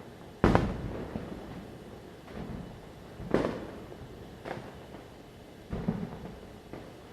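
Diwali firecrackers bursting: one loud bang about half a second in and another about three seconds later, then a few fainter bangs. Each bang trails off into a rumble.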